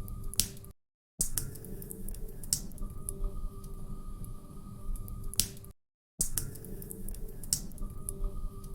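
Log fire crackling in a fireplace: a low rumble of burning with scattered sharp pops and snaps. It is a short recording looped about every five seconds, cutting out to silence for a moment about a second in and again about six seconds in.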